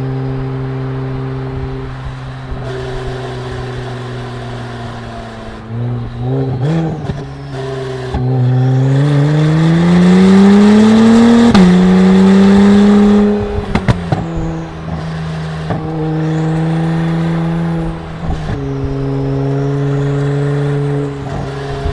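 Honda NSX V6 engine heard through a 3-inch titanium exhaust: steady running, a few quick throttle blips, then a long rising rev climb under acceleration about eight seconds in that drops suddenly at a gear change, before settling back to steady running.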